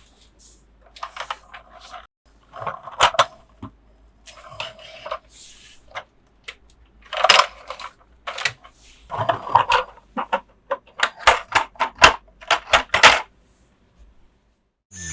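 Hard plastic toy pieces being handled: a run of clicks, taps and light clattering, with a quick series of sharp clicks in the second half that stops about two seconds before the end.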